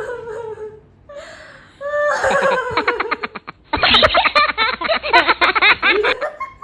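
Loud laughter in rapid, repeated bursts, starting about two seconds in, briefly pausing, then running again until near the end.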